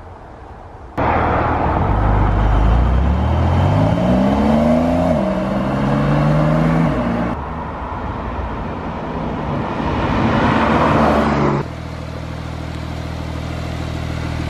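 Porsche 911 flat-six engine accelerating, its pitch climbing steadily through the revs and dropping back at a gear change, then pulling on, heard across a few abruptly cut clips of the car driving.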